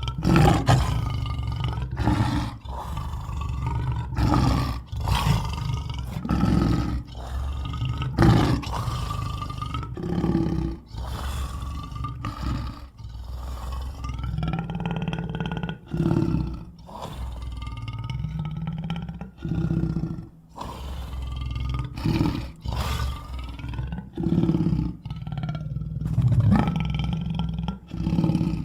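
Sweetums, the Muppet monster, roaring and vocalizing: a long run of separate loud roars and grunting calls, one after another with short gaps between them.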